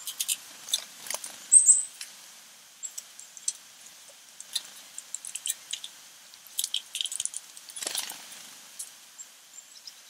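Small backyard birds giving a scatter of short, high chirps and chips, with one louder high note that falls in pitch about a second and a half in.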